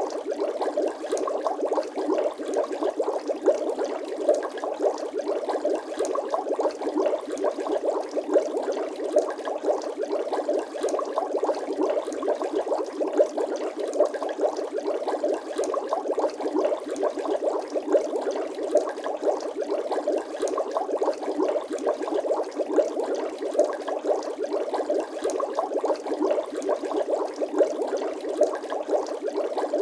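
Bubble sound effect: a continuous, dense stream of water bubbling, many small bubbles popping in quick succession at an even level.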